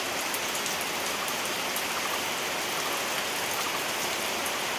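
Heavy monsoon rain pouring down steadily: a dense, even hiss with sharp little ticks of drops striking a surface.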